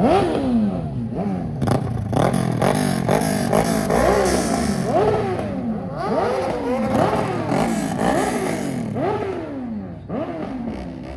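A car engine revved hard over and over, about twice a second, each rev climbing quickly in pitch and dropping back, with bursts of hiss on top; the revving eases off near the end.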